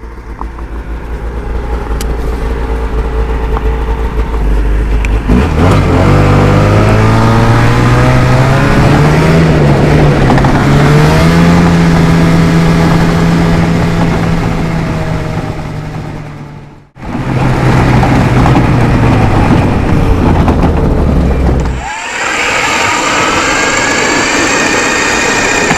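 Snowmobile engine speeding up from a low rumble and then running at a steady cruising pitch. It breaks off abruptly twice, as if the clip is cut, and after the second break the pitch is higher.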